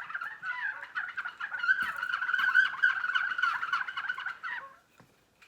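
Four small plastic-bottle bird chirpers tied together, whirled round on a shoelace so that air rushing in and out of the slot cut in each bottle's side makes a fast, chattering bird-like chirping. It stops about four and a half seconds in.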